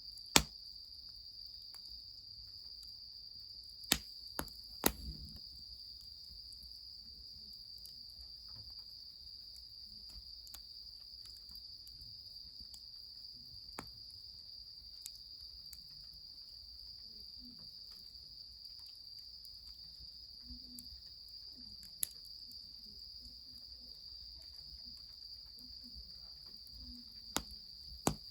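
Steady high chirring of night insects, with a handful of sharp cracks or pops standing out over it, the loudest right at the start and others scattered through.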